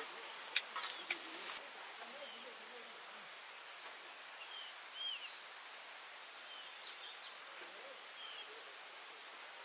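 Birds giving short, scattered chirping calls over a steady background hiss, with a few sharp clicks or knocks in the first second and a half.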